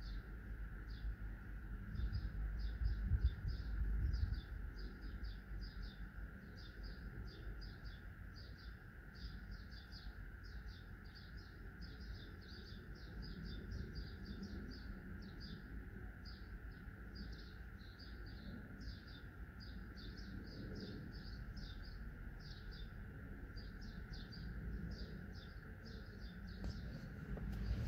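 Outdoor ambience: small birds chirping rapidly and repeatedly over a steady faint hum and a low background rumble.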